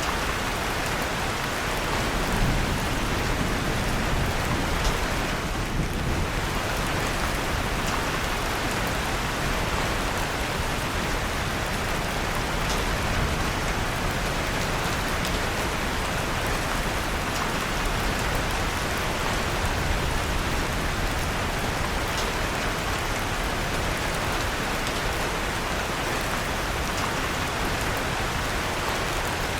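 Steady rain falling in an even hiss, with a few faint crackles from a fireplace fire.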